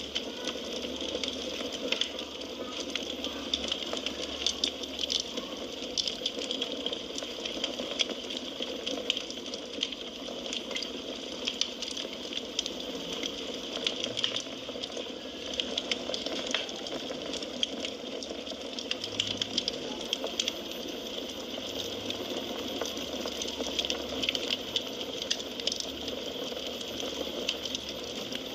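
Firewood burning in a fireplace: a steady hiss with frequent, irregular sharp crackles and pops.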